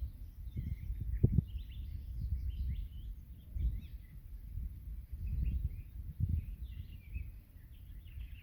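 Several small songbirds chirping and twittering in quick, overlapping short phrases. Beneath them, irregular low rumbling bumps come and go, loudest about a second in.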